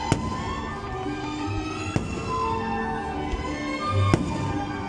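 Aerial fireworks shells bursting, three sharp bangs about two seconds apart, over music that plays throughout.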